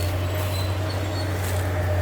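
Land-clearing machine's engine running steadily with a low drone and a steady whine, with a few faint short high chirps over it.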